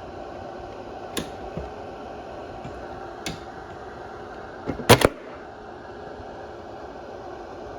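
A steady hum with a few sharp clicks; the loudest is a quick double click about five seconds in.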